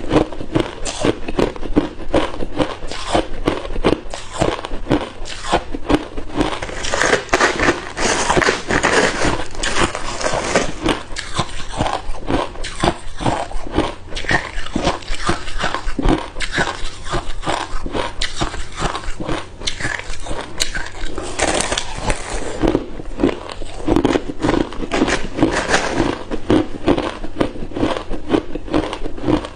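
Hard ice cubes being bitten and chewed close to the microphone, a continuous run of sharp crunches and crackles.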